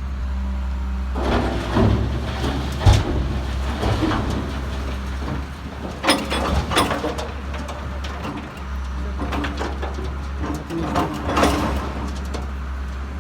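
Motor vehicle in motion with a steady low rumble, and scattered knocks and rattles at times.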